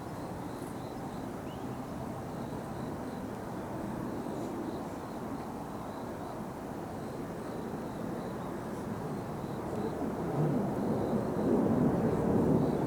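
Distant jet noise from Blue Impulse's Kawasaki T-4 jet trainers: a steady rumble that swells louder about ten seconds in as the jets come closer.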